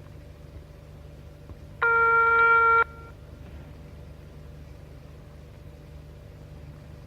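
A telephone ring tone sounds once: a single steady electronic beep about a second long, starting about two seconds in, over a faint low hum.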